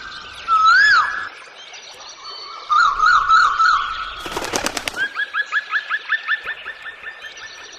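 Birds calling: a loud call that rises and falls about a second in, a wavering run of notes, then a rapid series of short rising notes, with smaller birds chirping behind. Near the middle, a brief burst of rapid clattering wing flaps.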